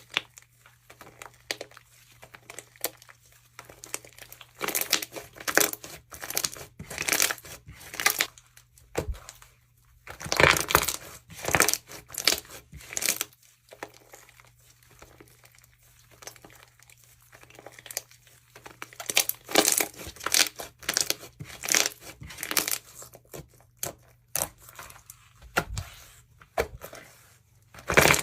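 Jewelry slime being squeezed and worked by hand, crackling and crunching in irregular bursts with short pauses between.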